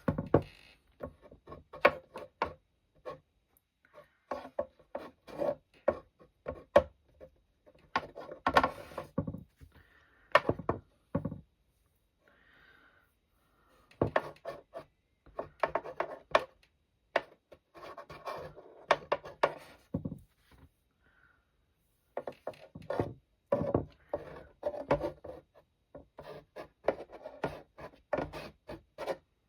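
Palette knife scraping and dabbing wet watercolour paint on paper in short, quick strokes that come in clusters with brief pauses. The scraping breaks up the wet paint into rock texture.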